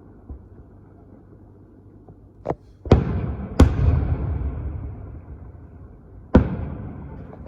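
Fireworks going off: after a couple of seconds of low background, a small bang and then three loud bangs, the loudest about halfway through. Each bang is followed by a long rumbling echo that dies away.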